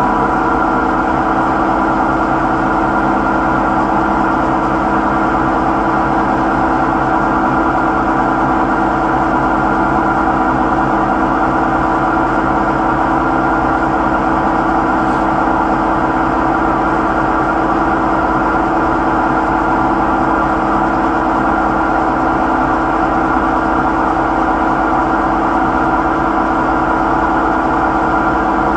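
Samsung washing machine in its spin cycle giving off a steady mechanical drone with several held tones. It is the abnormal spin noise of a fault that has kept coming back despite repairs.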